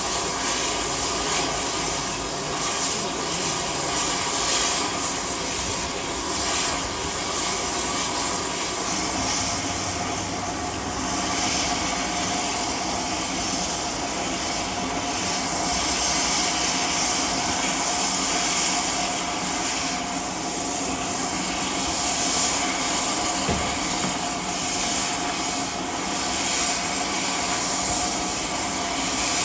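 A train running on the railway, a steady, unbroken sound of engine and wheels with constant tones running through it.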